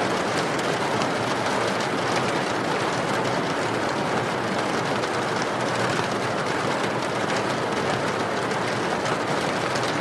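Steady rain falling, an even hiss with fine patter of drops throughout.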